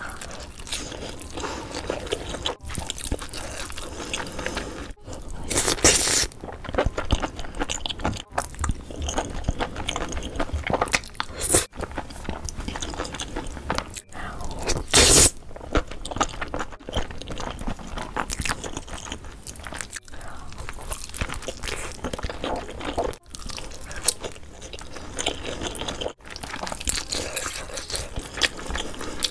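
Close-miked ASMR eating sounds: a woman chewing and biting big mouthfuls of spicy sauced noodles, wet and crunchy, in short spliced takes with a brief break every few seconds.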